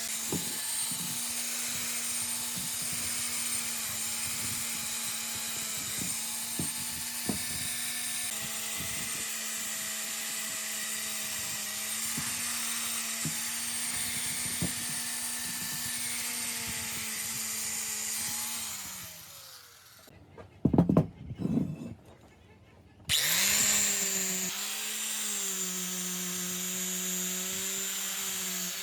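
An electric power tool runs steadily with a hum and a high hissing cutting noise, with scattered small clicks. About two-thirds of the way in the motor winds down and stops, a few knocks follow in the pause, and then it is switched back on and runs up to speed again.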